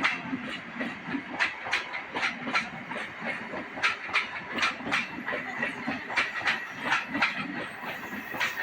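Train wagons rolling past, their wheels clacking over the rail joints in a steady rhythm of sharp clicks, often in pairs, over a running rumble.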